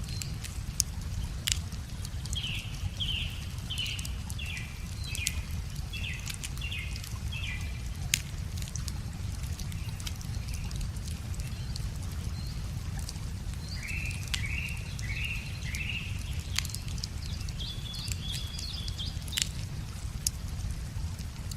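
Wood fire crackling with scattered sharp pops over a steady low rumble. A songbird sings a run of quick, falling notes twice, and a higher call follows near the end.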